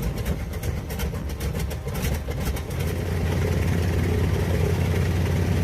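Curtiss-Wright R-1820 nine-cylinder air-cooled radial aircraft engine running. It fires unevenly with sharp pops for about the first three seconds, then settles into a steadier, slightly louder run.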